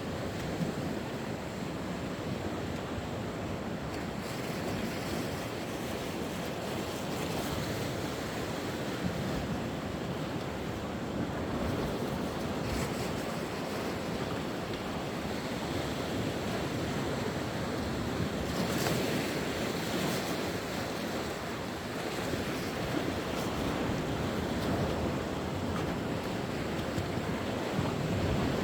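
Sea waves breaking and washing on the shore in a steady, rolling surge, with some wind buffeting the microphone.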